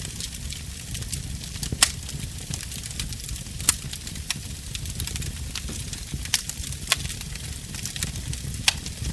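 Wood fire burning in a fireplace: a steady low rumble of flames with scattered sharp crackles and pops, a few of them louder, about two seconds in and again near four seconds.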